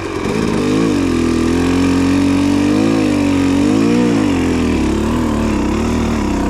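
Dirt bike engine running at idle, with a couple of throttle blips that raise and drop its pitch about three and four seconds in.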